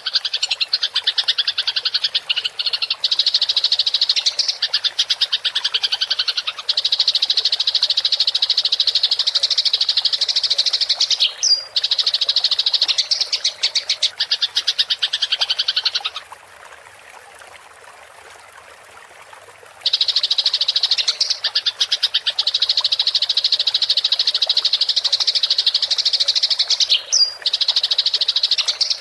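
Eurasian tree sparrows chattering in a loud, very rapid, unbroken stream of high chirps, the excited calling of fighting sparrows. From about 16 to 20 seconds in the chirping stops and only a quieter, even trickle of running water is heard before the chatter resumes.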